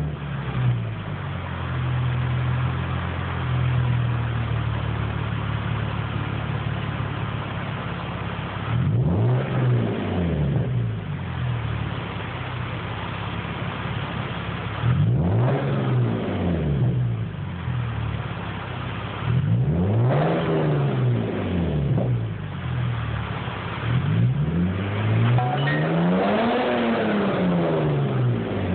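Lexus IS350's 3.5-litre V6, breathing through an aftermarket LMS full exhaust and K&N intake, idling and being blipped four times in neutral, each rev rising and falling back to idle; the last rev, near the end, is held longest and goes highest.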